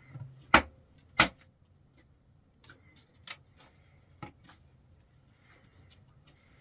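Two sharp knocks about two-thirds of a second apart, followed by a few fainter clicks and taps.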